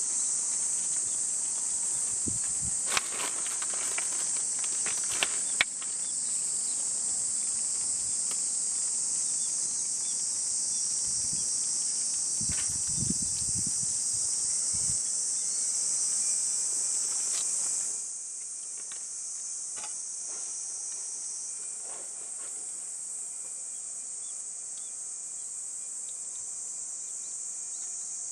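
Steady, high-pitched chorus of insects chirring in a summer forest. A few sharp clicks and low knocks in the first half; the overall level drops about two-thirds of the way through.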